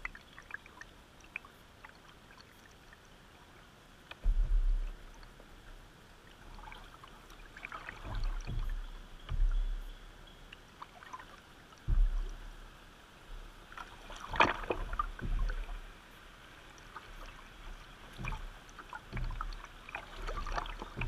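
Kayak paddling on a fast river: paddle strokes and splashes over steady moving water, broken by several loud low thumps and knocks.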